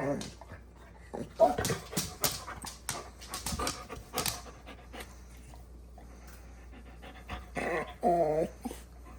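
Dog panting in quick noisy breaths, then a short pitched whine near the end: a dog begging for food.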